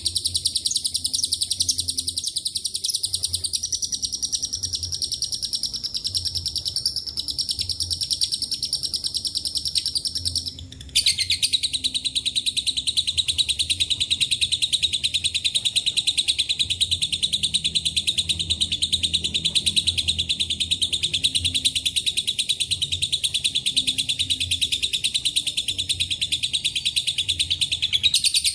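Lovebird giving a long, very rapid high-pitched trilling chatter (a long 'ngekek'). It breaks off briefly about ten seconds in, then resumes at a somewhat lower pitch and runs on unbroken.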